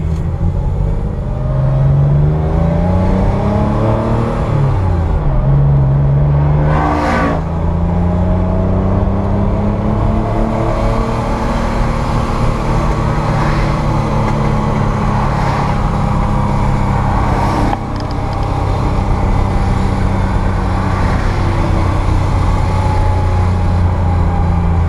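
Porsche 911 Carrera's flat-six engine heard from inside the cabin, pulling hard on track: its pitch rises for the first few seconds, drops at a gear change about four and a half seconds in, then the engine runs on at high revs, with a short dip in loudness about eighteen seconds in.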